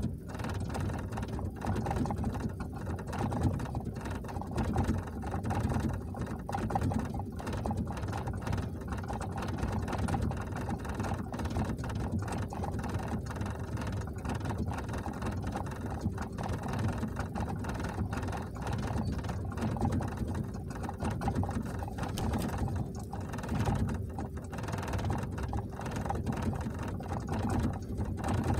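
1993 Ford Explorer's 4.0 L OHV V6 idling unevenly, heard from inside the cab. It is running rich with a bad idle, which the owner suspects comes from the engine not metering air properly: a faulty idle air control valve or a burned mass airflow sensor.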